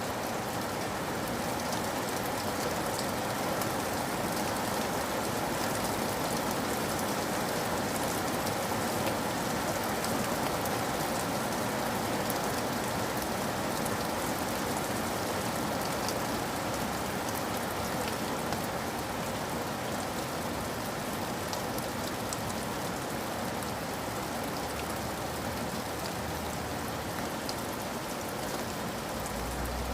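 Steady rain falling, an even hiss with scattered sharper drop ticks through it.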